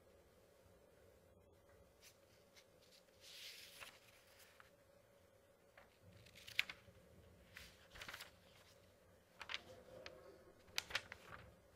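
Paper pages being turned by hand, faint: a soft swish of a page about three seconds in, then several crisp crackles and flicks of paper later on.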